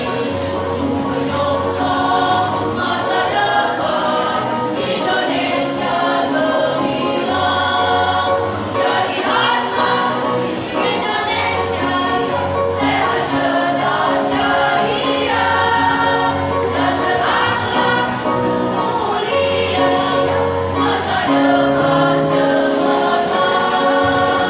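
Choir of early-childhood teachers singing, several voices holding sustained notes together over steady low bass notes.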